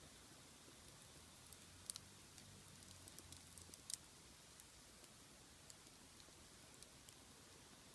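Wood fire burning in a large iron pot, crackling faintly with scattered small pops; two sharper pops come about two and four seconds in.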